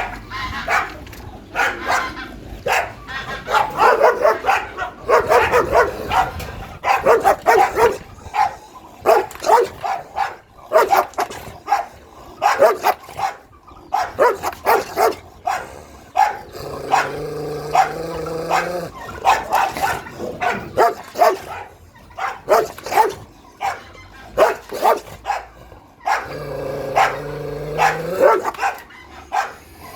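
Dogs barking repeatedly in quick runs, with two longer held calls, one about two thirds of the way through and one near the end.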